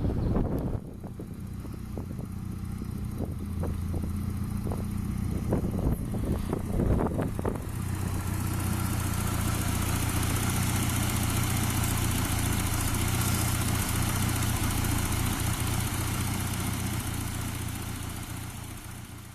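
Freshly rebuilt Volvo B234F 16-valve four-cylinder engine running steadily, with scattered sharp clicks over the first several seconds and a steady hiss joining from about eight seconds in; the sound fades away at the end.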